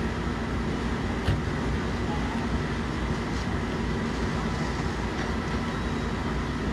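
Steady low rumble of running vehicle engines, with a faint steady hum and one short click about a second in.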